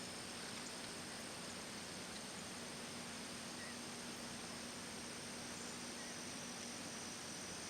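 Steady outdoor ambience: an even hiss with a constant thin high-pitched tone and a low hum, and a few faint short chirps.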